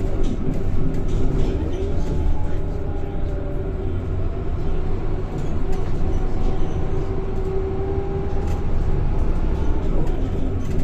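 Scania K230 single-deck bus heard on board while under way: a steady low engine and road rumble with a thin whine from the ZF automatic gearbox that drifts slowly in pitch, and light rattles from the body.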